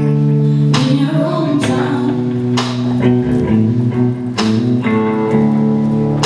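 Live band music led by guitar: sustained chords ring out and are struck anew every second or two, with a wavering melodic line over them.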